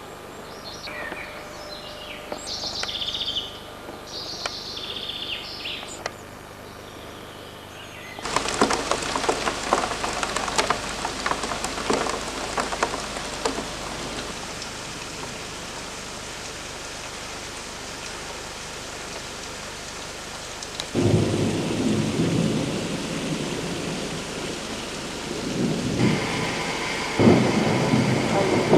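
Heavy rain falling, starting abruptly about eight seconds in, with deep rumbling from about two-thirds of the way through.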